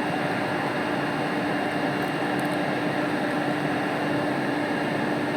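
Steady mechanical hum with a constant mid-low tone, the even running noise of workshop machinery around a CNC router.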